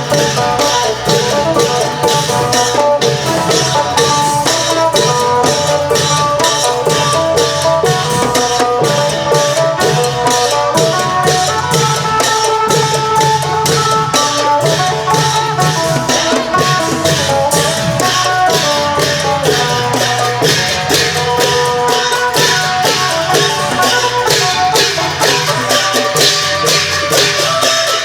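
Isan klong yao long-drum ensemble playing procession music, with an amplified phin (northeastern Thai lute) carrying the melody over a quick, steady drum beat.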